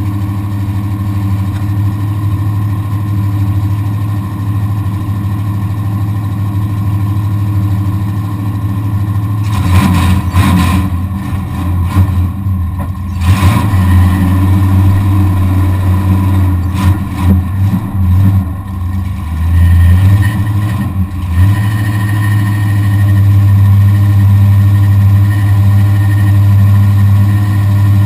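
Truck engine heard from inside the cab, running steadily, then revving up and down in irregular surges with sudden drops for about ten seconds from roughly a third of the way in, before settling back to a steady run.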